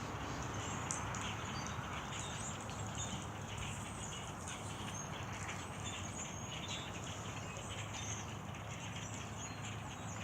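A flock of birds chirping, many short high calls overlapping, over a steady low background rumble.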